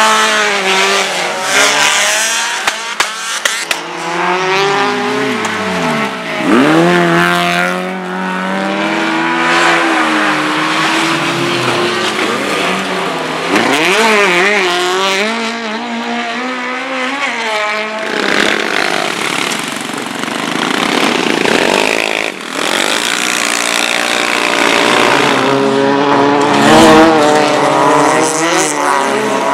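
Race car engines revving hard, their pitch climbing and dropping over and over through gear changes, acceleration and braking. There are sharp dips and recoveries in pitch about six and thirteen seconds in.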